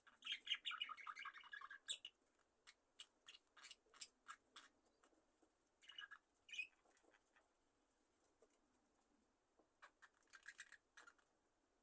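Budgerigars chirping softly in bursts: a warbling chatter for the first two seconds, a couple of short calls around six seconds, and another brief chatter near the end, with faint scattered ticks in between.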